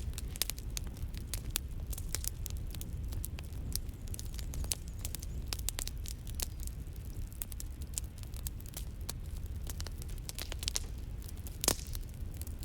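Campfire crackling: irregular sharp pops and snaps over a low steady rumble, with one louder pop near the end.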